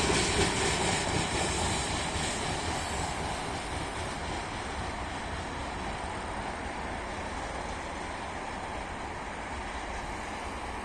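Freight train rolling past on the rails and moving away, its sound fading over the first few seconds, then settling to a steady, quieter rumble.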